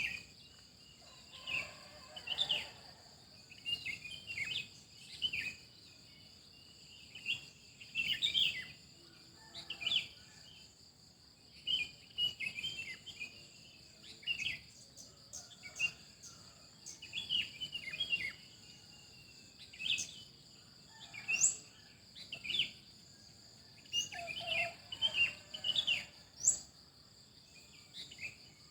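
Songbirds chirping in short clusters every second or two, with a few quick rising whistles, over a steady high-pitched drone of insects.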